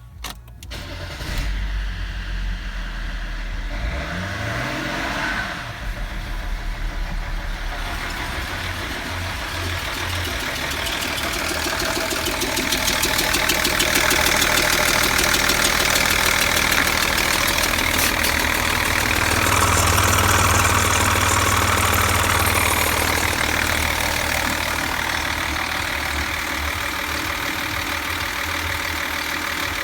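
BMW M57D30 (306D1) straight-six turbodiesel starting up about a second in and then running with a diesel clatter. It gets louder from about twelve seconds in, is loudest at about twenty to twenty-three seconds, then settles back.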